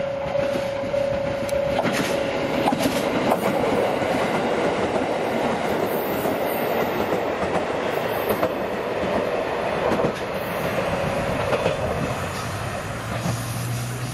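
A train running through the station, a steady rumble with wheels clicking over the rail joints. A repeating tone stops about two seconds in, and a low steady hum comes in near the end.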